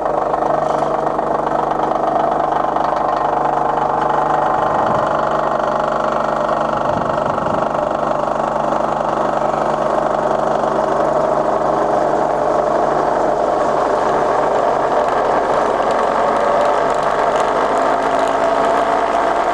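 Bridgeport turret mill's variable-speed head running in low range as the spindle is wound up towards its top speed. It is a steady mechanical whine that rises in pitch. The owner calls the worn head a bit noisy, since it has done a bit of work.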